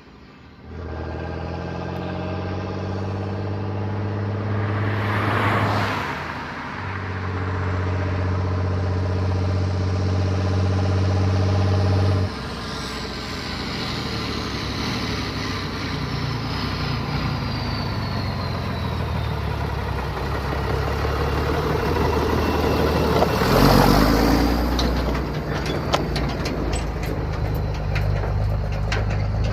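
SAME Antares II 130 tractor engine running through a straight exhaust pipe under way on the road. It picks up about a second in and runs loud and steady, dipping briefly around six seconds. Around twelve seconds the note drops off sharply and carries on lower, with a faint high whistle falling slowly after the drop and a short loud rush of noise about three-quarters of the way through.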